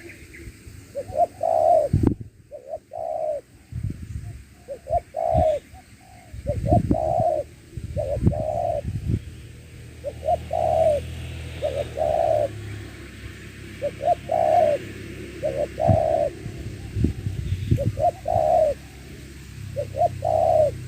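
Spotted dove (tekukur) cooing over and over, short rounded notes in repeated phrases of a few coos each, with a few low thumps among them.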